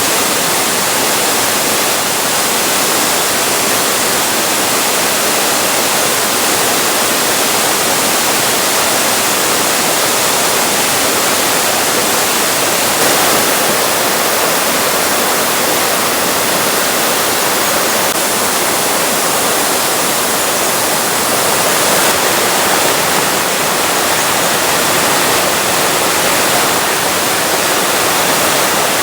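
A waterfall rushing, loud and even, with no breaks.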